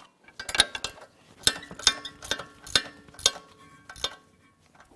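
Hand socket ratchet tightening a bolt: a series of sharp metallic ratchet clicks, roughly two a second and unevenly spaced, tapering off toward the end.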